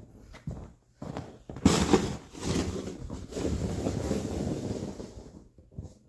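Snow shovel pushed and scraped through snow: a few light knocks, then a loud scraping rush that starts suddenly and lasts about three and a half seconds.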